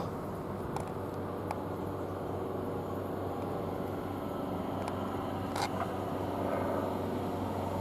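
Class 720 electric multiple unit standing at the platform, its on-board equipment giving a steady low hum, with a few faint clicks.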